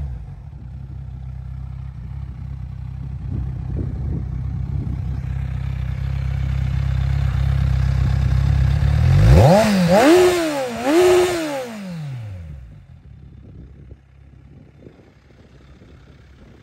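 Kawasaki Z1000 inline-four motorcycle engine idling through a TOCE three-outlet aftermarket exhaust. About nine seconds in, the throttle is blipped twice in quick succession, then the engine note drops away and the sound becomes much quieter.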